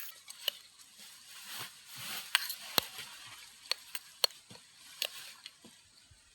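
Campfire crackling: irregular sharp pops and snaps, several a second at times, over a faint hiss.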